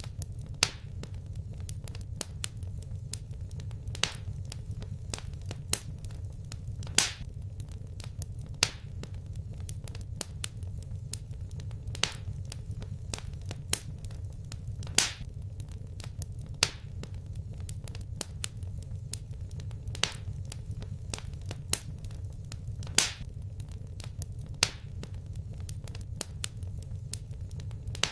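Wood fire crackling in a fireplace: many small sharp pops over a steady low rumble, with a louder snap every couple of seconds.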